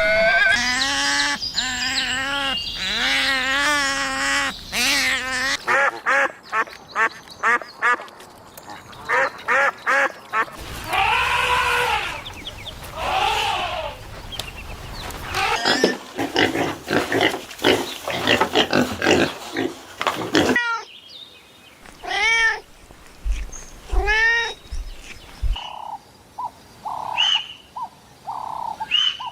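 Assorted farm animal calls following one another: wavering bleat-like cries at the start, arching calls in the middle, and a string of short repeated calls near the end.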